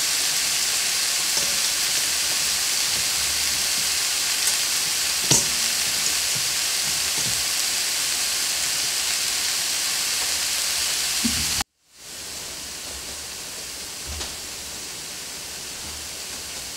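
Steady sizzling of chopped onions and celery in a skillet still hot after the burner is turned off, with a few soft knocks of hands crumbling cornbread in a stainless steel bowl. The sizzle cuts off suddenly about two-thirds of the way in, then goes on fainter.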